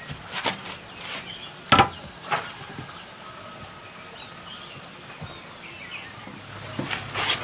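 Sharp wooden knocks from bamboo being worked: three in the first two and a half seconds, the loudest about two seconds in, then a short clatter near the end.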